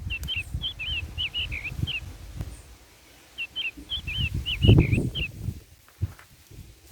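A songbird singing two bouts of quick, short chirping notes with a pause between them. Irregular low rumbling thumps sit beneath, loudest about two thirds of the way through.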